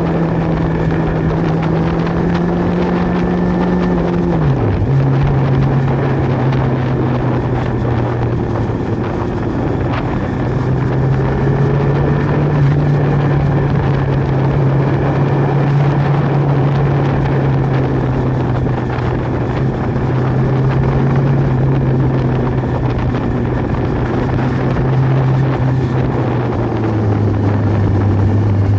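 Sport motorcycle engine running steadily under way. Its note drops sharply about four seconds in and again near the end.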